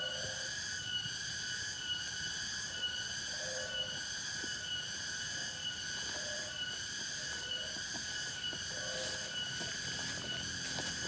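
Insects in forest, most likely cicadas, holding a continuous high-pitched buzzing drone that pulses slightly in level.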